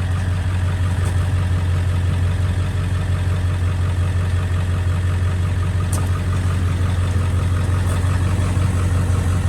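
Pickup truck engine idling steadily with a deep, even hum.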